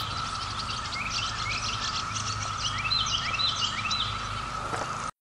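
Chorus of periodical cicadas making a steady, even drone, the hiss that sounds like air leaking from a valve, with songbirds singing short repeated phrases over it. The sound cuts off suddenly near the end.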